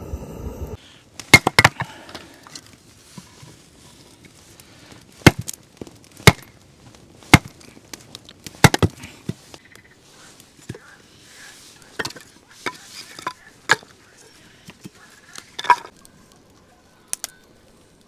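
Hatchet or axe chopping wood: about a dozen sharp, separate strikes at an uneven pace, mostly one to two seconds apart.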